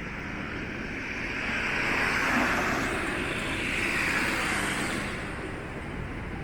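A car passing on a city street: its tyre and engine noise swell about a second and a half in and fade away by about five seconds, over a steady background of traffic.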